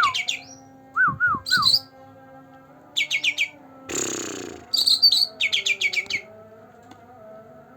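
Cucak ranting singing in quick bursts of rapid high chirps and a few slurred whistled notes, with one harsh rasping note about four seconds in; it falls quiet about six seconds in over a faint steady hum.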